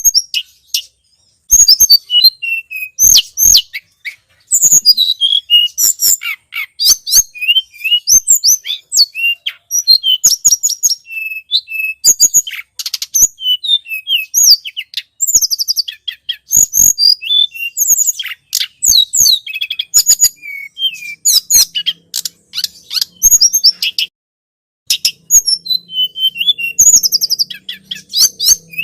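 Tledekan gunung calling in a busy run of rapid, high chirps and short trills, with brief pauses, as played from a bird-lure recording. A faint low hum enters in the second half.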